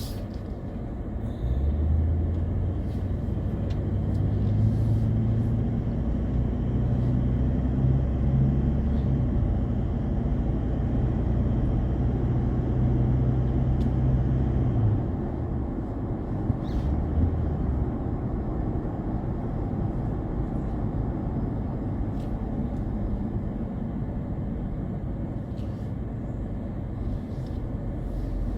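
A car driving on the road: steady low hum of engine and tyres with rumbling road noise. The hum is louder for about the first half and eases off about halfway through.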